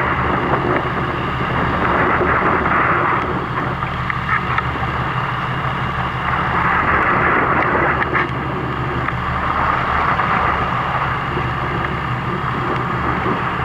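Fishing boat's engine running steadily, under a rushing of wind and water that swells and fades every few seconds.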